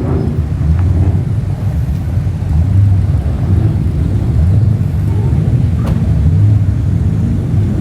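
Car engines running nearby at low speed, a steady low rumble.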